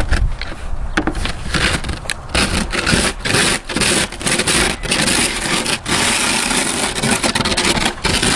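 Snow shovel scraping and pushing heavy snow off a porch roof in a long run of strokes, with short breaks between them.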